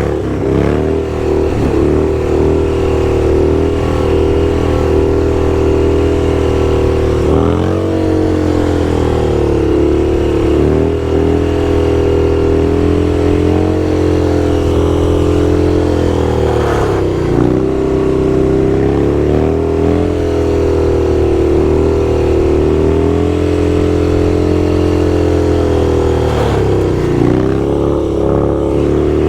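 Motorcycle engine running at a steady cruising speed, with brief dips in pitch that climb back up three times, about every ten seconds, as the throttle eases and reopens.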